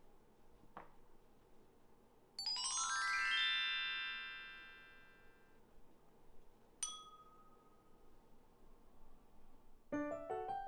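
A bright rising run of chime tones that rings out over about three seconds, then a single bell ding that rings on. Near the end, light melodic background music starts.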